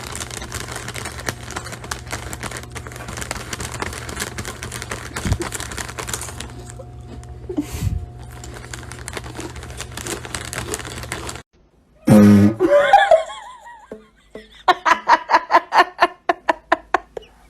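Steady noisy hum with scattered clicks, cutting off suddenly about eleven seconds in; after a short silence comes a loud sliding call, then a person's quick rhythmic laughter, about five bursts a second.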